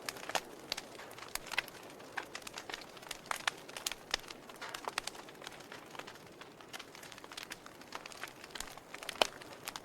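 Wood fire in a fireplace crackling: irregular sharp pops and snaps over a soft hiss, with one louder pop near the end.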